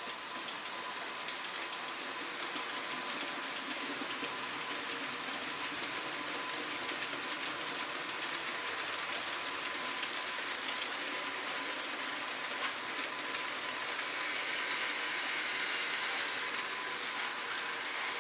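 H0-scale model trains running on the layout: a steady whirr of small electric motors and wheels rolling on the track, with a thin high whine.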